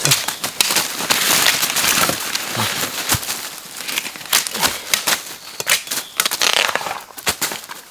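Dry crinkling and rustling with many sharp clicks and snaps, like dry plant matter being handled or crushed.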